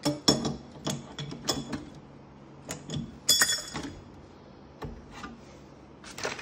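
Metal hand tools clinking and knocking against fridge compressor fittings, in short clusters of sharp clicks with brief ringing, separated by quieter pauses.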